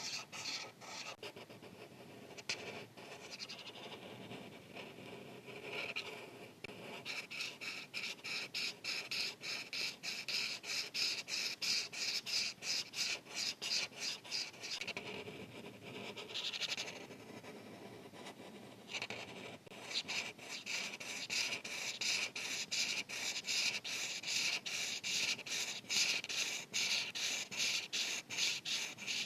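Marker tip scratching across paper in rapid back-and-forth coloring strokes, with a few short pauses.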